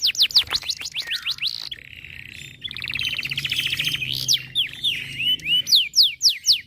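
Domestic canary singing: runs of quick, high notes that each sweep downward, broken about a third of the way in by a fast rolling trill, then more sweeping notes near the end.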